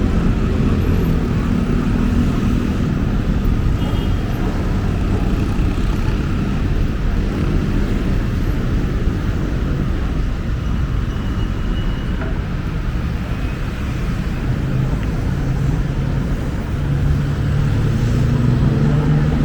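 Busy city road traffic: a steady rumble of vehicle engines and tyres, with the engine hum of nearby vehicles loudest near the start and again near the end.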